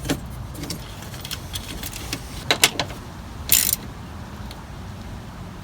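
Plastic interior trim of a Honda CR-V clicking and rattling as it is handled and fitted back into place: a few sharp clicks, a double click about two and a half seconds in, and a short scrape a second later.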